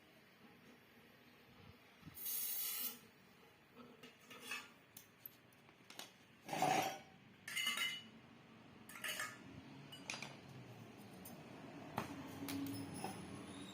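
Metal tools and parts being handled, about half a dozen short clinks and scrapes at irregular intervals, some ringing briefly.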